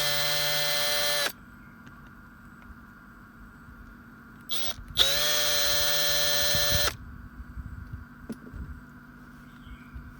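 A power tool's electric motor run in two short bursts, each a steady whine after a quick rise in pitch as it spins up, cutting off sharply. A few light knocks follow.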